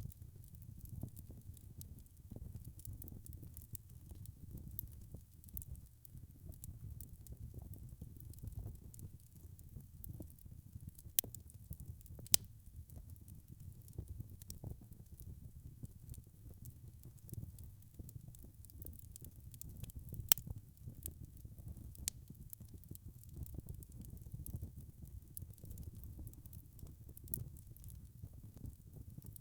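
Wood fire in a fireplace crackling, with frequent small pops and a few louder snaps over a steady low rumble of the flames.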